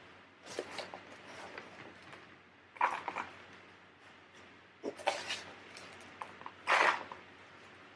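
Several short bursts of rustling and scraping from hands working pothos plants and potting soil in a pot during repotting.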